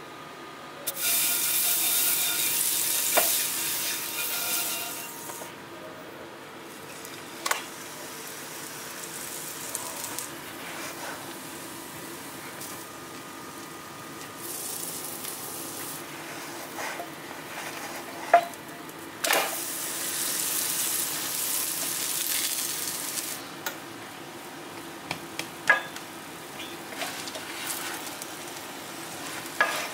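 Bread dough frying in a hot nonstick pan: two loud stretches of sizzling, about a second in and again about two-thirds through, with a few sharp knocks of a utensil against the pan.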